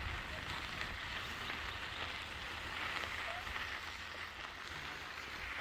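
Bicycle tyres rolling over a gravel trail, a steady crunching hiss over a low rumble.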